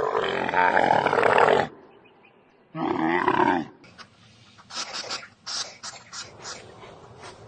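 A large animal giving a loud roaring call, a second shorter call about three seconds in, then a run of short, rapid rasping breaths or snorts.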